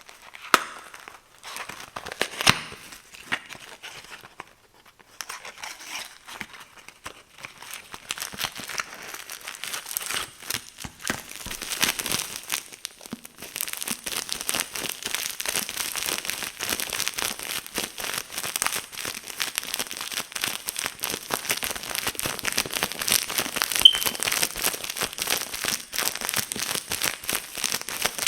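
Fingers tapping and scratching on boxes for ASMR. There are a few separate taps at first, then rapid, continuous scratching full of fast clicks, which grows denser about halfway through.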